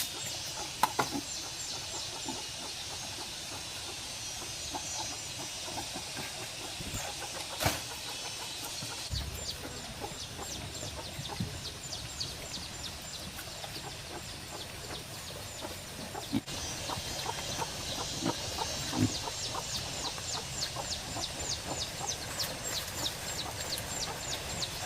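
Outdoor wildlife sounds: long runs of rapid, high-pitched chirps repeated several times a second, with a few soft knocks scattered through.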